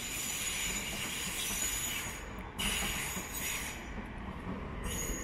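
Two coupled Class 350 Desiro electric multiple units departing at low speed, a steady rumble with a thin high-pitched squeal from the wheels.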